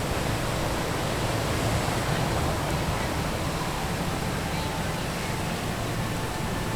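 Steady rushing noise of wind and light rain, with a low rumble of wind buffeting the microphone.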